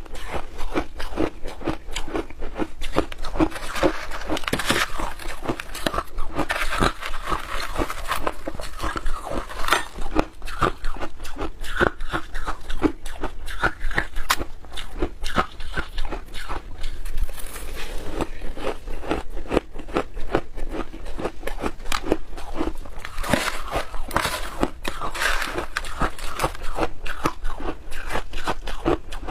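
A person chewing and crunching shaved ice coated in milk powder, with rapid, continuous crunches.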